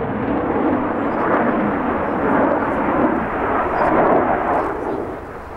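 Jet noise from a MiG-29 fighter's twin Klimov RD-33 turbofans in flight: a loud, steady rumble that eases slightly near the end.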